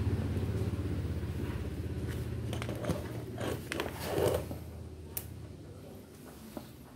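A small electric motor running with a low, fast-pulsing hum that dies away about three and a half seconds in, followed by a few sharp clicks and light knocks.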